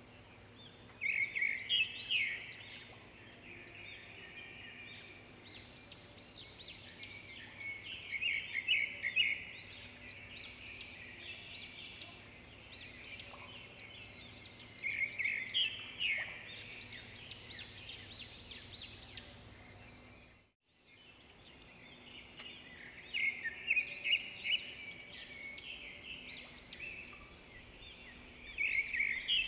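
Small birds chirping and chattering in bursts of quick, high notes. The sound cuts out briefly about two-thirds of the way through.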